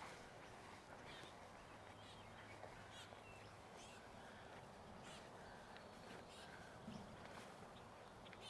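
Faint, scattered calls of wild birds, short and spaced out, over quiet outdoor background.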